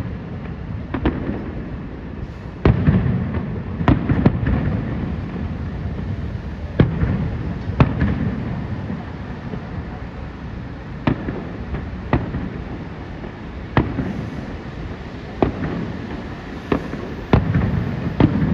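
Fireworks show: aerial shells bursting in about a dozen sharp booms at uneven intervals, each trailing off in a long low echo.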